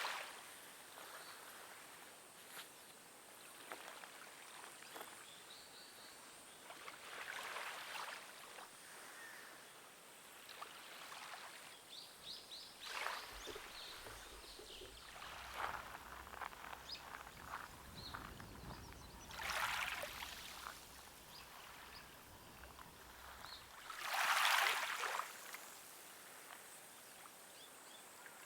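Gentle water lapping in soft swells every five or six seconds, with faint bird chirps in between.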